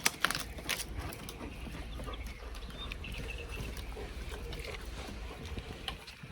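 Footsteps on the forest floor, with several sharp cracks in the first second and a few later, over a steady low rumble of wind on the microphone.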